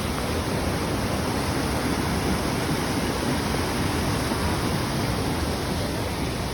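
Waterfall: falling water making a steady, loud rushing noise.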